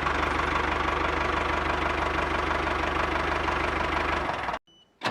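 Small motor of a DIY model tractor running steadily with a fast, even knocking rhythm; it cuts off abruptly near the end.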